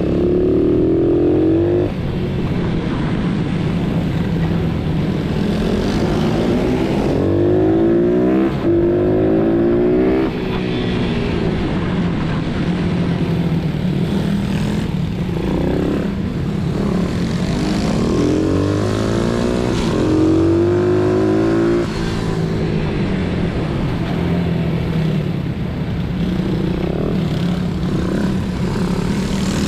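Pit bikes' small single-cylinder engines revving as they accelerate, more than one engine at once: one pitch climbs and cuts off sharply again and again over a steady drone from another engine.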